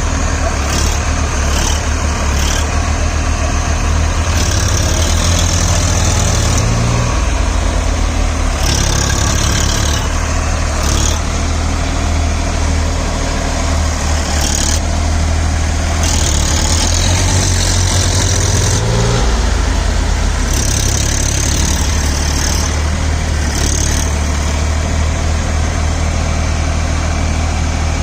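Massey Ferguson 7250 DI tractor diesel engine running hard under load, its pitch rising and falling several times. Intermittent hissy bursts come over the top of it.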